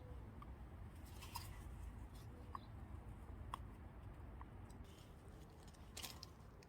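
Faint handling noise of fingers pressing a new rubber seal into its groove on the oil filter housing part: scattered small clicks and rubbing over a low background hum.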